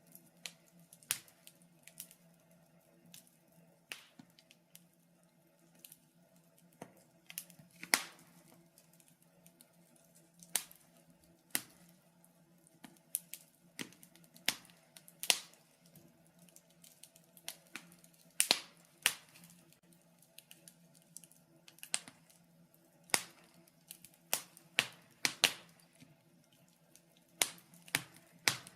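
Wood fire crackling in a fireplace: irregular sharp pops and snaps, a few at a time and some much louder than the rest, over a faint low steady hum.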